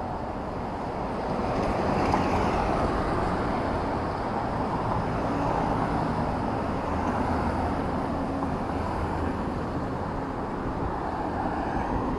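Urban road traffic: vehicles passing on a city street, a steady rumble that swells about two seconds in.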